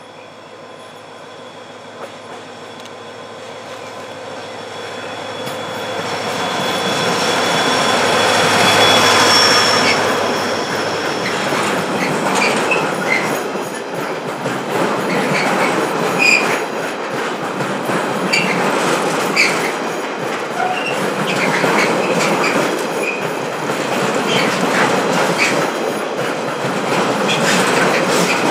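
A diesel-hauled container freight train passing. The engine sound builds to its loudest about nine seconds in as the locomotive goes by. The wagons then roll past with steady wheel clicks over the rail joints and occasional brief wheel squeals.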